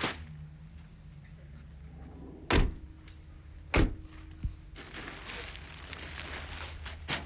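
Several heavy thumps over a low steady rumble, the two loudest about two and a half and four seconds in, with a lighter one shortly after and another near the end.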